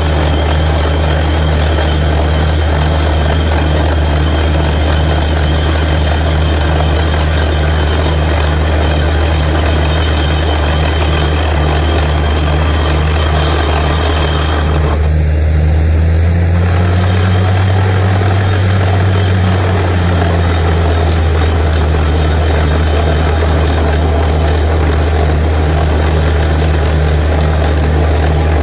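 Borewell drilling rig running steadily, its diesel engine making a loud, even drone with a regular pulsing beat. About halfway through, the engine note rises for a few seconds, then drops back to its steady level.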